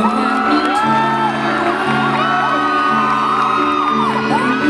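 Live band playing the opening of a slow song, held chords changing about once a second, with audience members whooping and calling out over the music.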